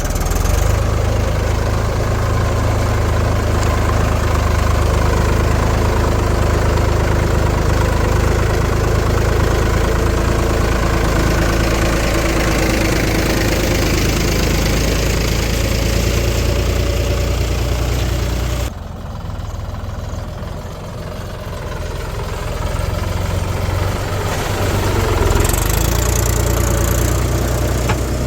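Heavy diesel machinery running: a steady, low engine drone. About two-thirds of the way through it drops suddenly in level, then builds back up near the end.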